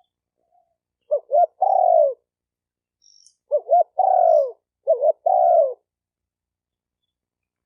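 Spotted dove cooing: three phrases, each two short coos followed by a longer note that falls in pitch. A faint high chirp from a small bird is heard about three seconds in.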